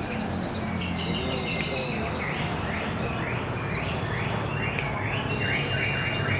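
Several caged songbirds singing at once in a bird-song contest, with repeated down-sweeping whistles and fast high trills overlapping, over a steady low hum.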